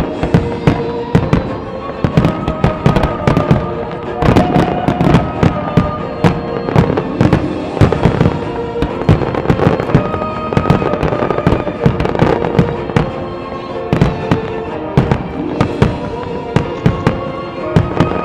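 Aerial fireworks shells launching and bursting in rapid succession, many sharp bangs a second, over sustained music that the display is synchronized to.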